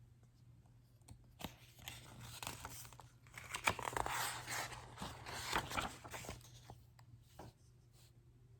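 Paper and cardboard rustling and crinkling with a few sharp clicks, as the pages of a children's board sound book are handled and turned.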